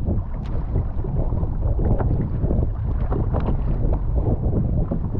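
Strong wind buffeting the microphone in a steady low rumble, with frequent short splashes of rough, choppy water around a kayak.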